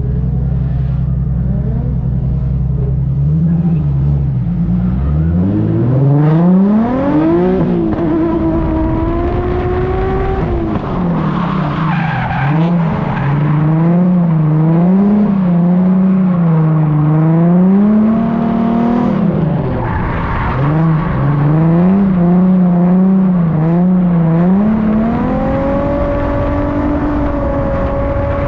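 Nissan 350Z's V6 engine at full drift throttle. It runs low and steady, climbs steeply after about three seconds, then rises and falls about once a second as the throttle is worked, and climbs and holds high near the end. Tyres skid on the wet surface throughout.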